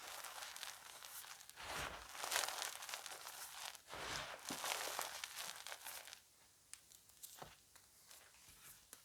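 Blocks of gym chalk being crushed and crumbled close to the microphone: dense, grainy crunching and crackling in bursts, easing off after about six seconds to a few sharp isolated crackles.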